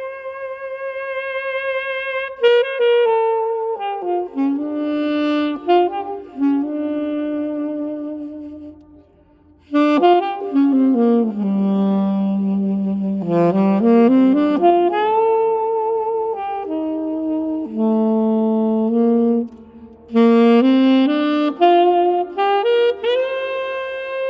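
Freshly overhauled 1974 Selmer Mark VI alto saxophone played alone. It opens on a long held note with vibrato, then runs through phrases that dip down into its low register and climb back up. There are two brief breaks between phrases, and it ends on another held note with vibrato.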